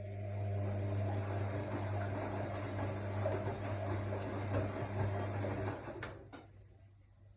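AEG Lavamat L62850L washing machine's motor turning the drum during the wash: a steady hum with swishing that runs for about six seconds and then stops, followed by two clicks.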